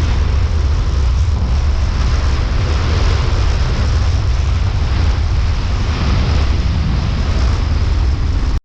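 Loud, steady rumbling noise with no distinct tones that cuts off suddenly near the end.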